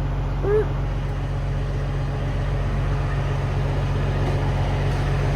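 Diesel engine of a Peterbilt 379 dump truck running at a steady low drone while the truck creeps along at low speed.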